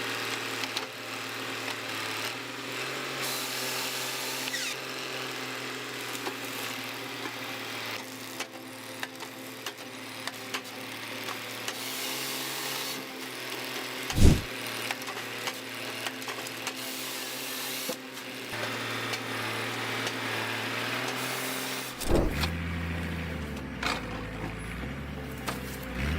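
Crane-mounted stroke harvester head at work on timber: the carrier machine's engine runs steadily under several seconds-long washes of noise as the head cuts and delimbs, with one loud knock about 14 seconds in. In the last few seconds a lower, shifting hum takes over.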